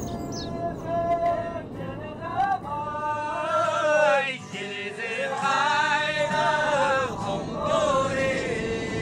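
Singing: a voice carries a wavering, ornamented melody in long rising and falling phrases over a steady low accompaniment, settling onto a held note near the end.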